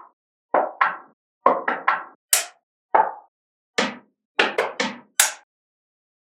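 Small magnetic balls snapping together one after another: about fourteen sharp clicks, several in quick runs of three or four.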